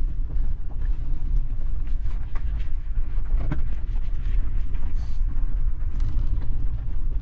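Suzuki Jimny on a rough mountain track: a steady low rumble of engine and tyres with scattered small knocks and clicks.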